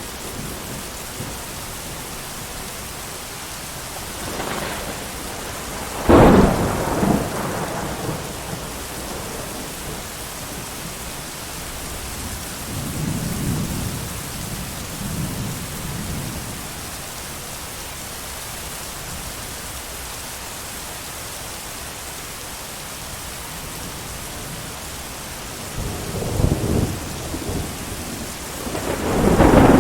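Steady heavy rain with thunder: a sharp crack about six seconds in that rolls off into rumble, softer low rumbles in the middle, and a second loud crack and roll near the end.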